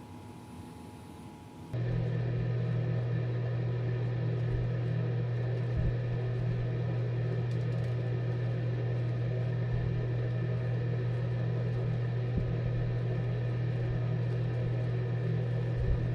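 Inline duct booster fan running: a steady motor hum with a whir of moving air, cutting in abruptly about two seconds in.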